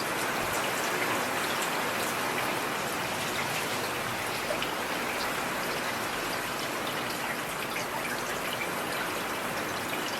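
Steady rain falling on a street: an even hiss dotted with scattered sharp ticks of individual drops.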